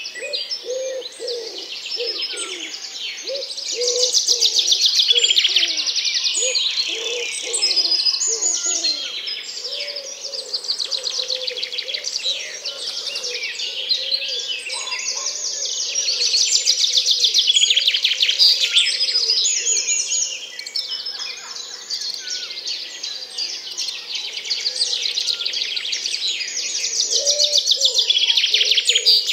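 Many small birds chirping and trilling at once, with repeated low cooing calls underneath that are strongest in the first third and again near the end.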